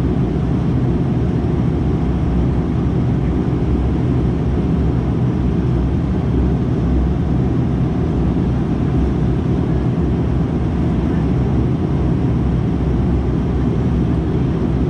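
Dash 8-400's Pratt & Whitney Canada PW150A turboprops and six-blade propellers running steadily, heard inside the passenger cabin as an even, low drone with a steady hum.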